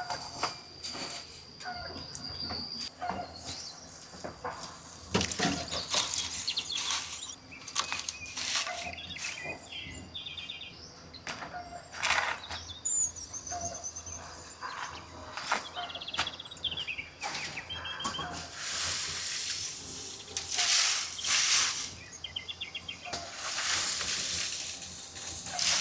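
Irregular knocks and clatters with several longer bursts of rustling or scraping, while small birds chirp now and then.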